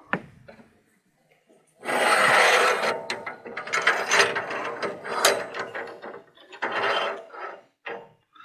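A log being handled on a sawmill deck, with wood scraping and metal parts clanking. There are sharp knocks at first, then a long stretch of clattering and scraping from about two seconds in, and a shorter one near the end.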